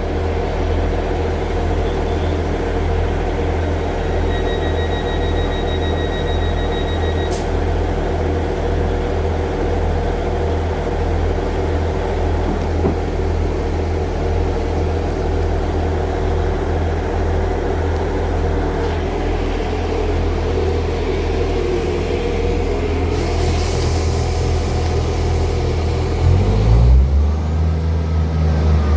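Diesel multiple unit's engine idling with a steady low hum. A few seconds in, a high beeping tone sounds for about three seconds. Near the end the engine note shifts and grows louder as it throttles up.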